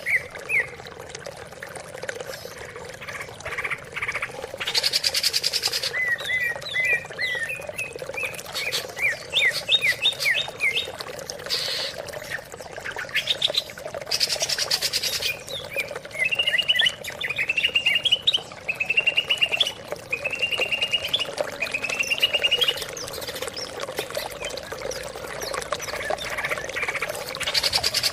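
Greater green leafbird (cucak ijo) singing: runs of quick chirps and rapid trilled phrases, repeated again and again. Several short rushing noises cut in among the phrases, and a faint steady hum sits underneath.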